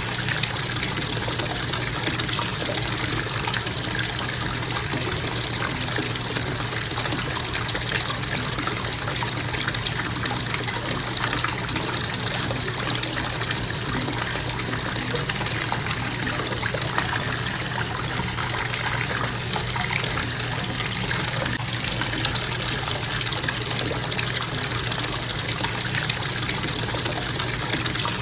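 Bathtub faucet running in a steady, unbroken stream of water into the tub.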